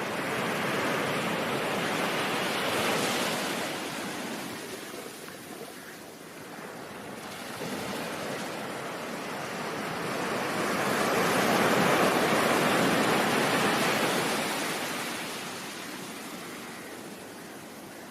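Ocean surf: waves wash in and draw back, the rushing noise swelling and fading twice, once near the start and again in the middle before ebbing away.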